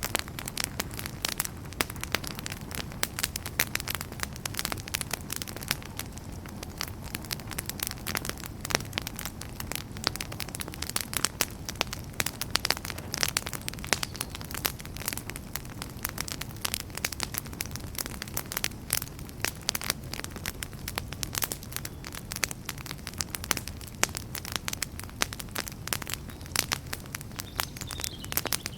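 Wood campfire crackling: dense, irregular sharp snaps and pops over the low, steady rumble of the burning fire.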